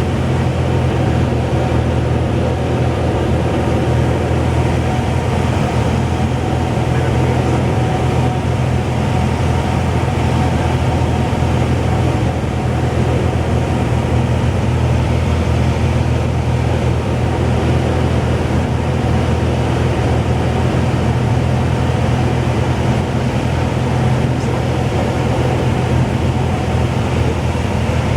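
Cessna 172's piston engine and propeller running steadily, a constant low drone.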